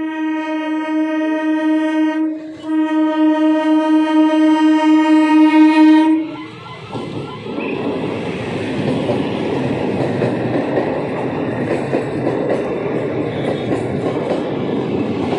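ICF electric multiple unit (EMU) local train sounding its horn in two long blasts, the second longer, then running past at close range with a steady rumble of wheels on the rails.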